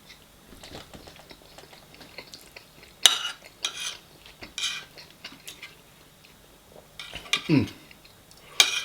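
Cutlery scraping and clinking against a plate as food is scooped up, with faint small clicks at first and then several louder short scrapes, the loudest about three seconds in and near the end.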